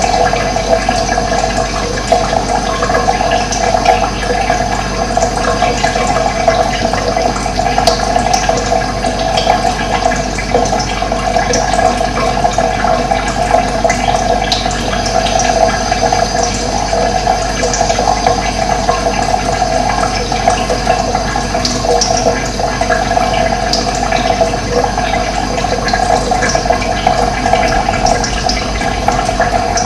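Steady rush of running water, even and continuous.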